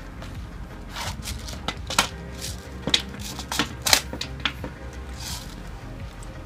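A series of sharp, irregularly spaced clicks and knocks, about a dozen over a few seconds, clustered near the middle, over faint background music.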